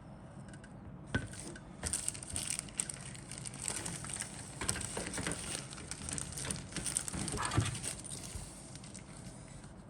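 Plastic model-kit contents being handled: irregular crinkling and rustling with small clicks and knocks, busiest from about a second in until near the end, over a low steady hum.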